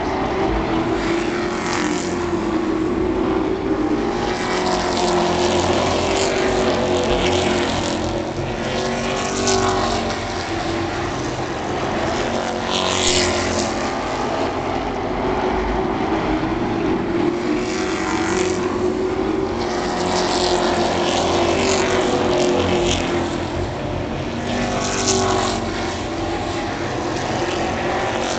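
Racing super trucks running laps on an oval track, their engines rising and falling in pitch as they go by, with several louder passes.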